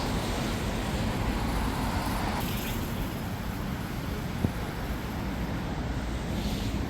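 Street traffic noise: a steady rush of passing vehicles, with one sharp click about four and a half seconds in.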